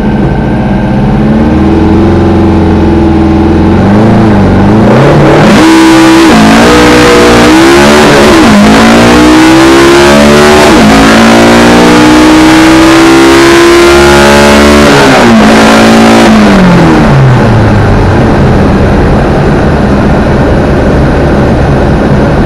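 Volkswagen 2387cc air-cooled flat-four drag engine idling, then launching at full throttle about five seconds in. The revs climb and drop back at each of three gear changes, pull hard through top gear, then fall away as the throttle is lifted near the end of the run.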